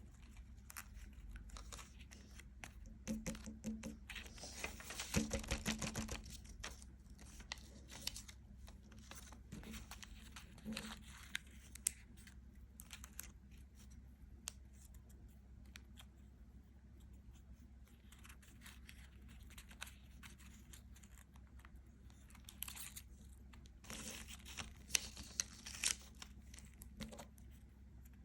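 Crackly crinkling and tearing handling sounds, in two main bursts: one about three to six seconds in and another near the end, with quieter scattered crackles between.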